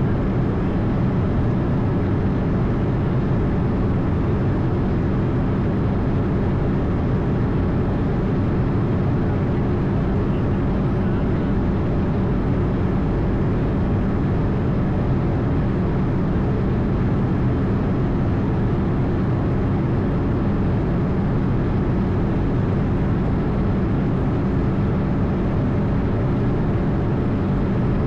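Steady noise inside an Airbus A220 in flight: an even rush of air with a constant low hum from its turbofan engines, unchanging throughout.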